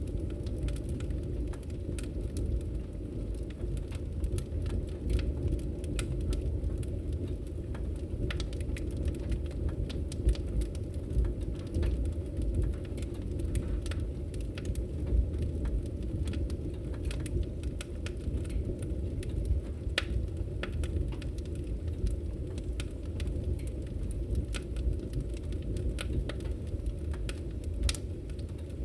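Campfire crackling: a steady low rush of burning wood with scattered sharp pops and snaps.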